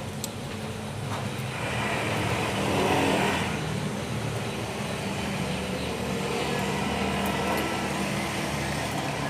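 A motor vehicle engine running steadily, with a louder swell of noise about two to three seconds in.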